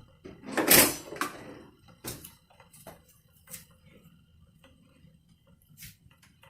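Kitchen handling sounds at a pot on the stove: one loud, short clatter a little under a second in, then a few light clicks and taps spread through the rest.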